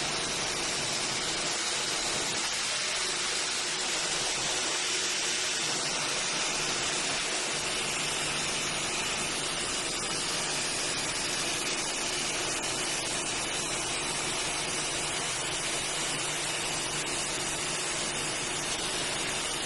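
Roasted-hazelnut skin-peeling machine running: a steady rushing hiss with a faint hum underneath and scattered light ticks.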